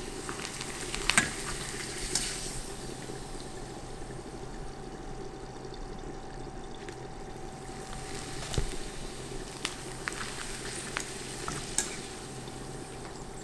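Appalam (papad) deep-frying in hot oil in a small stainless-steel kadai: a steady sizzle, with a few sharp clicks.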